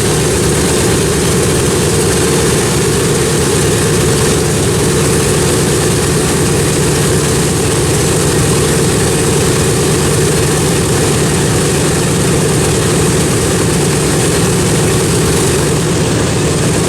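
Piston engines of a World War II-era propeller plane running steadily at close range, loud and even with no change in pitch.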